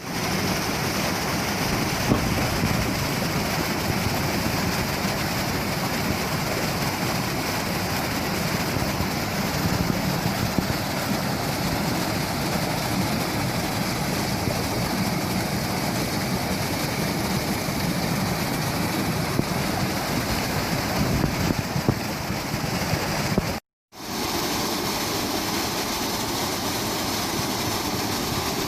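Steady rushing of a waterfall, with a brief dropout near the end where the sound cuts out and resumes.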